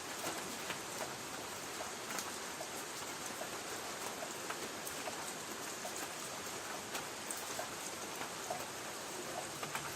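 Light rain on a tin roof: a steady hiss with scattered drops tapping and pinging on the metal.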